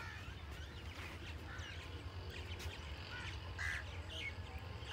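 Birds calling: scattered short chirps and calls, a few each second, over a low steady rumble.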